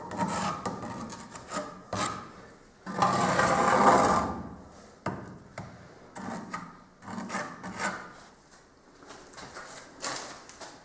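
Irregular rasping and rubbing strokes of a hand tool or hard material being worked or scraped, with one longer, louder stroke about three seconds in and a few sharp knocks between strokes.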